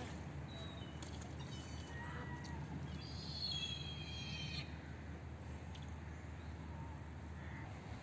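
Birds calling: a few short calls, then a longer, harsher call from about three to four and a half seconds in, over a steady low background rumble.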